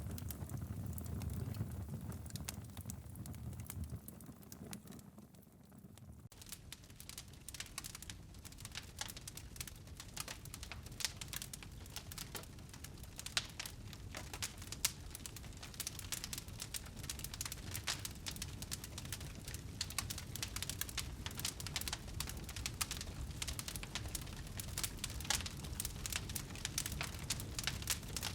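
Wood fire crackling in a fireplace: a dense run of small pops and snaps over a low rumble, dipping briefly about five seconds in before the crackle thickens again.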